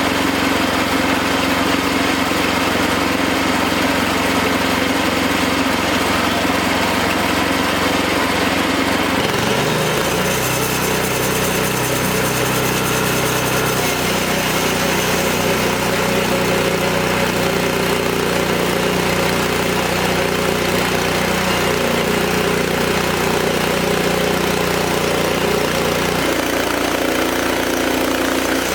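Wood-Mizer LX25 band sawmill running steadily on its small engine. The engine note changes about nine seconds in and changes back near the end.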